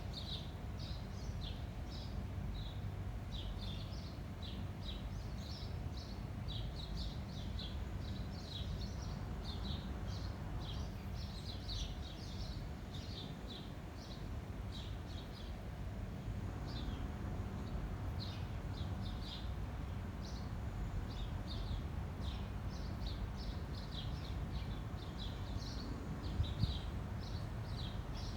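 Garden birds chirping continuously in many short, quick notes, over a steady low rumble of wind.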